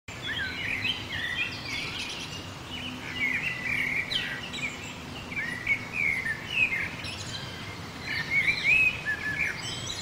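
Several birds chirping and calling, short quick notes and twittering phrases overlapping one another, over a low, steady background hiss.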